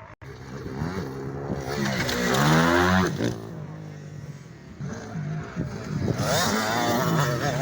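Motocross motorcycle engine revving and accelerating, rising and falling in pitch. It is loudest about two and a half seconds in and swells again near the end.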